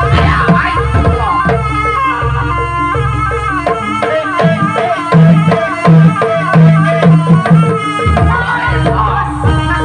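Jaranan music: a Javanese folk ensemble with hand drums keeping a driving beat under a pitched melody that bends between notes. Loud repeated low tones come in around the middle.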